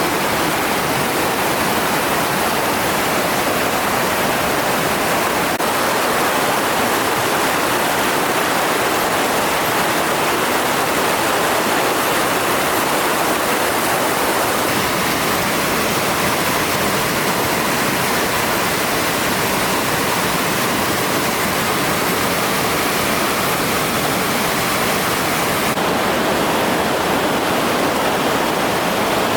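Waterfall's rushing water: a loud, steady, unbroken rush.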